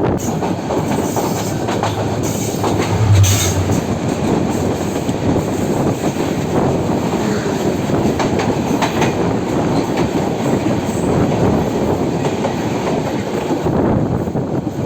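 Passenger train running on the rails: a steady loud rumble with irregular clicks from the wheels, a little louder about three seconds in.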